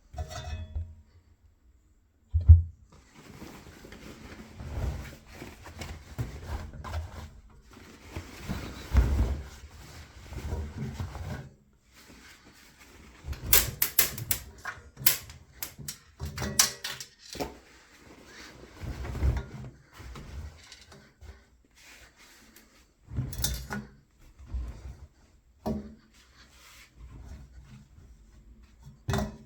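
Irregular knocks, clicks and low thumps from a washing machine, with short stretches of rustling noise between them; the loudest thump comes about two seconds in.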